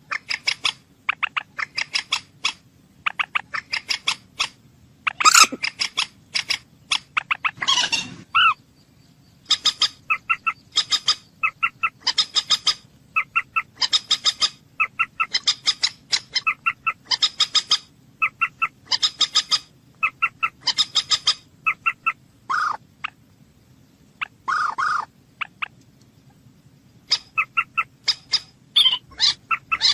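Bird calls: quick series of short, sharp repeated notes in clusters, coming again every second or two, with a few longer, louder calls mixed in, over a faint steady low hum.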